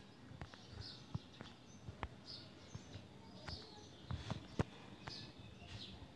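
Faint bird chirps repeating roughly once a second, with scattered small clicks and knocks; the loudest knock comes about four and a half seconds in.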